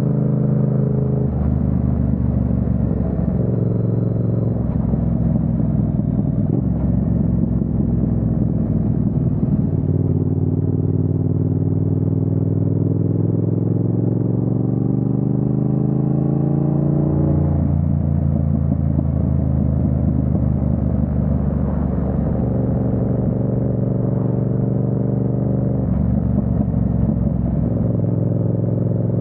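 Yamaha MT-07's parallel-twin engine running under way. The pitch changes a few times and climbs slowly for several seconds midway before dropping back.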